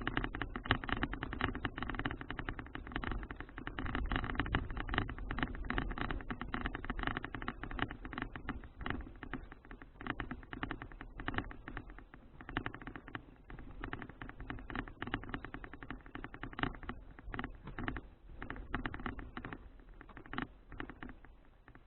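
A folding bicycle on the move: dense, irregular clicking and rattling over a low rumble, a little quieter in the second half.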